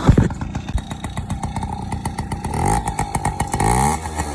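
Yamaha PW50's small two-stroke single running on half choke as it warms up after sitting for years, a fast crackly idle. The engine note rises twice in the second half and is loudest just before the end. There is a thump at the very start.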